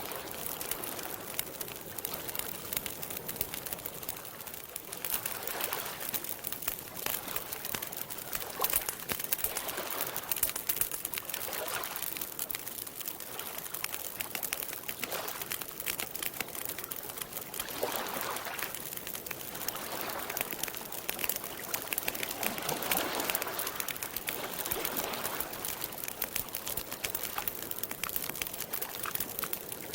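Campfire crackling with many small pops, over water lapping in soft swells every few seconds.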